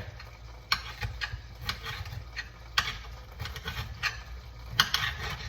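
Kitchen knife cutting bell pepper strips on a cutting board: a handful of sharp taps at uneven intervals.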